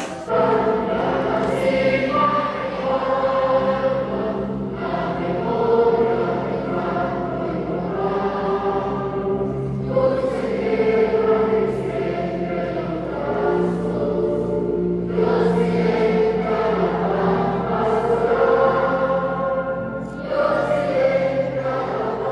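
A choir of many voices singing together in long held phrases of about five seconds each, with short breaks between them.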